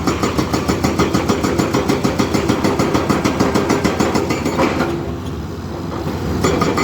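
Heavy diesel engine of construction machinery running with an even pulsing beat. It drops off for about a second and a half near the end, then picks up again.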